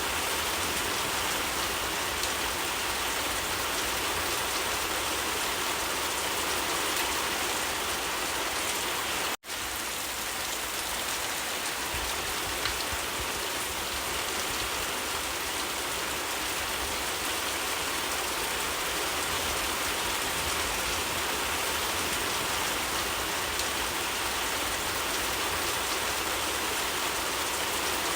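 Steady, continuous rain falling, a dense even patter. It cuts out for an instant about nine seconds in, then resumes at the same level.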